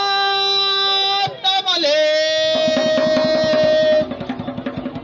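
A voice sings two long held notes, the second one higher, in a campfire chant. About halfway through, quick rhythmic percussive strokes come in beneath the second note.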